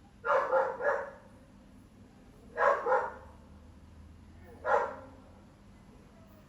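A dog barking: a quick run of barks, then a pair, then a single bark.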